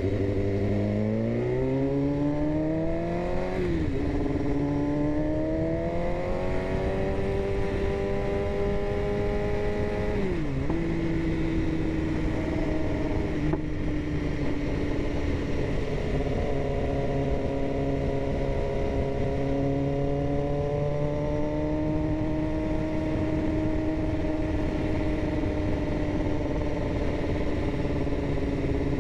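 BMW S1000RR inline-four sport-bike engine pulling hard through the gears. The pitch climbs, drops sharply at an upshift about three and a half seconds in, and climbs again to a second upshift about ten seconds in. After that the engine holds a steady cruising note.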